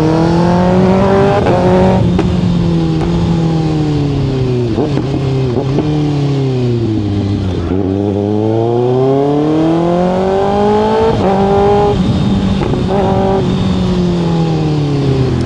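Kawasaki ZX-6R's inline-four engine under way, heard from a mic inside the rider's helmet. The revs climb for about two seconds, fall away steadily to a low about seven or eight seconds in, then climb again and hold, with a few short breaks near the end.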